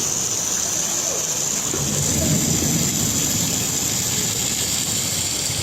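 Steady hiss of heavy rain and rushing floodwater, with a low rumble building about two seconds in.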